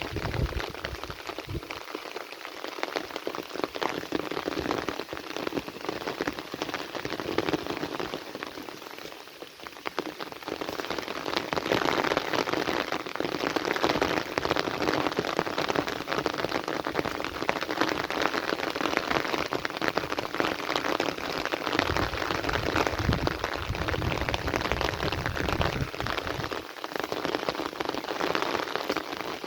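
Heavy rain falling steadily on a surface, a dense patter of drops that grows louder about a third of the way in. A low rumble comes and goes underneath in the last third.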